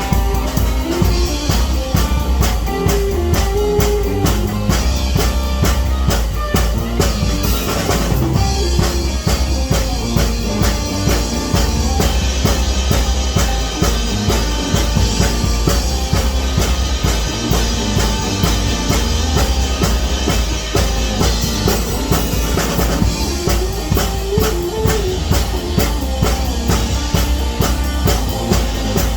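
Music with a drum kit playing a steady, busy beat, bass drum and snare, over other pitched instruments.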